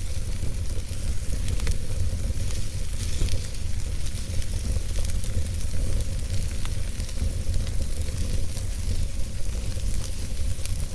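Wood fire burning in a fireplace: a steady low rumble of flames with hiss and scattered small crackles and pops.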